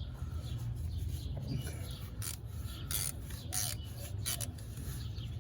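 Wind rumbling on the microphone, with four short hissing scrapes in the second half.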